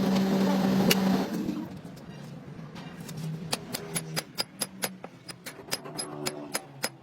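A machine's motor runs with a steady hum and stops about a second in. Then come a run of sharp metallic clicks, several a second.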